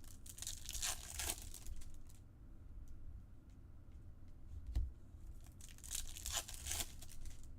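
Plastic wrappers of baseball card packs being torn open and crinkled, in two bursts of tearing about five seconds apart.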